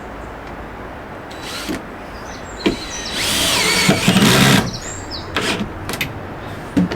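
Power drill running in one burst of about a second and a half, its motor pitch dipping and recovering under load, with a few short knocks around it.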